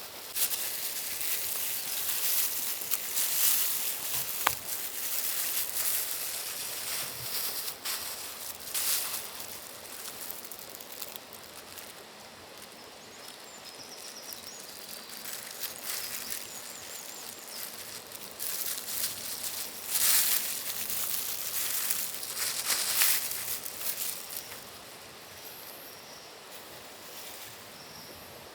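Irregular rustling and scuffing, louder in bursts, with a few faint bird chirps around the middle and near the end.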